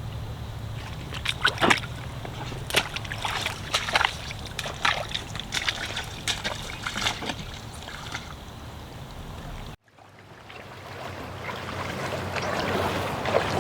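Water splashing and sloshing in a run of sharp, irregular splashes over a steady low hum. About ten seconds in the sound cuts off abruptly, then an even rushing noise rises.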